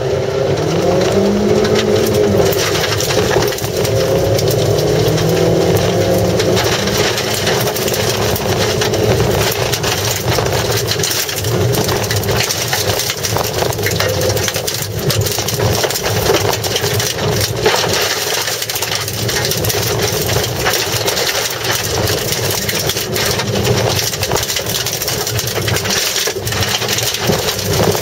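Mazda Demio's engine heard from inside the cabin, revving hard and climbing in pitch, then dropping at each gear change, as the car is driven flat out on dirt. Gravel and grit rattle against the underbody over the top.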